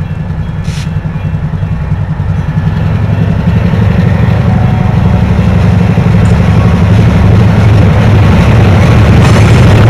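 Diesel switcher locomotive engine running with a heavy low throb, growing louder as it approaches. A brief hiss sounds under a second in.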